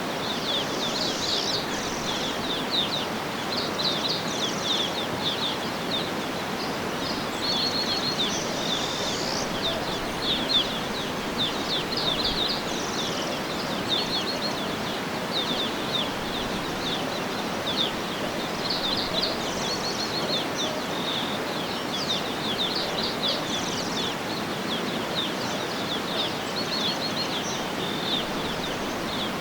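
Birds chirping and trilling without pause, many short high calls overlapping, over a steady outdoor background hiss.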